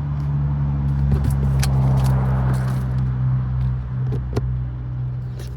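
A car passes on the nearby road: its noise swells to a peak about two seconds in and fades, over a steady low hum. Two sharp clicks come about four seconds in.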